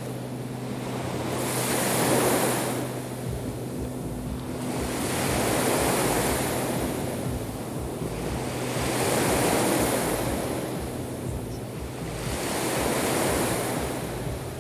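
Black Sea surf breaking on the shore: four waves swell and fall back, one about every three and a half to four seconds, over a faint steady low hum.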